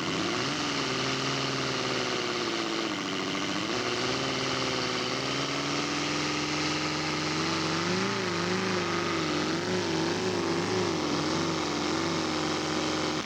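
Seidel seven-cylinder radial engine of a large-scale model aircraft running, its pitch shifting as the throttle changes. In the second half the pitch wavers up and down repeatedly.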